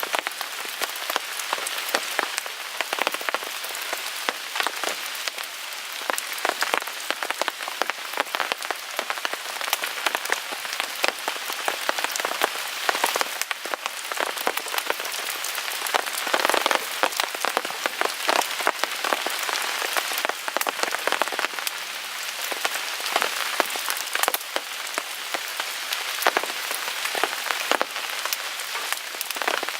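Steady rain falling on a tarp overhead, a dense hiss scattered with many small sharp ticks and pops.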